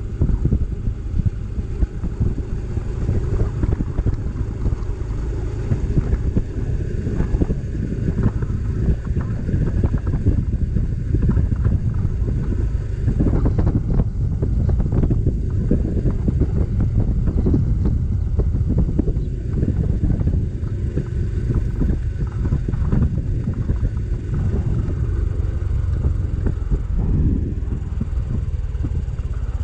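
Motorcycle on the move: engine running under steady wind buffeting the microphone, a dense low rumble.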